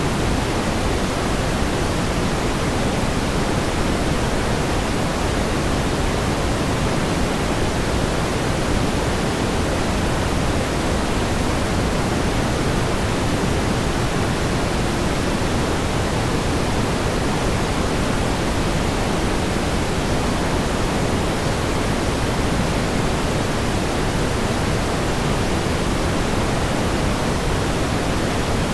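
Steady pink noise: an even, unchanging hiss with more weight in the low end than white noise.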